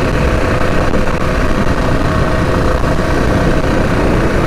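Modified Predator 212 single-cylinder four-stroke engine (big carburetor, billet rod and flywheel) on a mini bike, running steadily at part throttle while being ridden.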